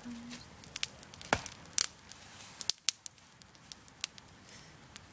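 Wood campfire crackling, with irregular sharp pops and two louder snaps about a second and a half in.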